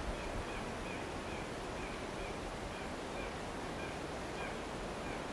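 Steady outdoor background hiss with a small bird giving short, high chirps over and over, about two a second.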